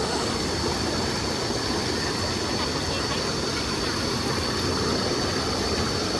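Waterfall rushing: a steady, even noise of falling water, with a steady high-pitched whine running through it.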